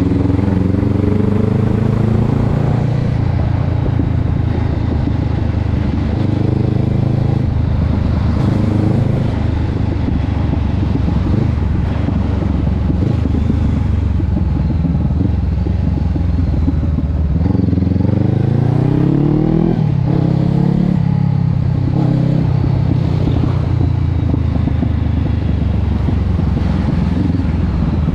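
Honda CB500X parallel-twin engine through a Termignoni aftermarket exhaust, running under way. The pitch climbs as it accelerates at the start, and again about eighteen seconds in, where it rises and then drops back.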